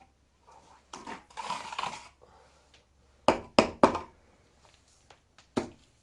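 A second or so of rustling, then three quick knocks about a third of a second apart, and one more knock near the end.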